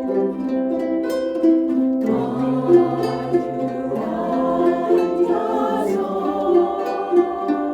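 Ukulele ensemble playing a song together, many plucked ukulele notes sounding at once.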